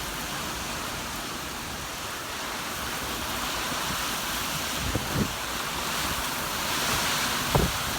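Hurricane wind and driving rain making a steady rushing noise that swells a little after the middle, with a few brief knocks about five seconds in and again near the end.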